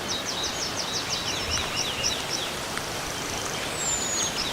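A bird singing a quick run of high, falling notes for about two seconds, then a single thin falling whistle near the end, over a steady background hiss of forest ambience.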